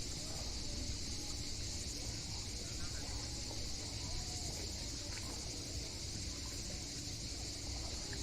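Cicadas in a steady, unbroken summer chorus, with a low rumble underneath.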